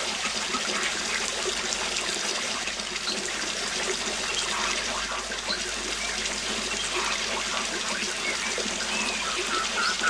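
Waterfall rushing steadily, with a few faint bird chirps over it near the end.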